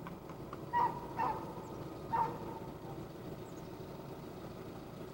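Three short, pitched animal calls, the first two close together and the third about a second later, over a steady low outdoor background.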